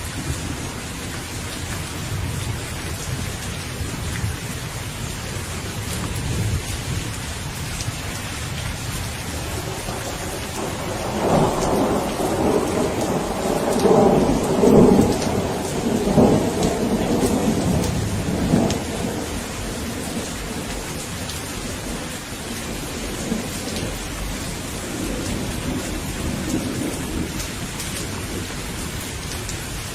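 Steady rain falling, with a long roll of thunder rising and rumbling for several seconds near the middle before dying back into the rain.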